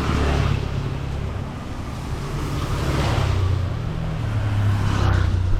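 Wind buffeting the microphone over a low drone of traffic, with swells of hiss about a second in, around three seconds and near the end.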